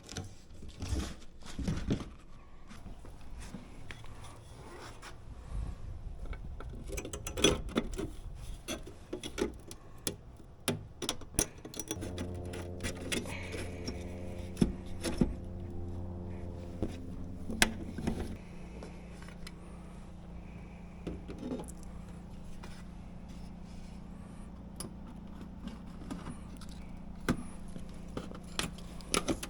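Scattered clicks, knocks and scrapes of hand work with tools and parts. About twelve seconds in, a steady low hum joins them and carries on.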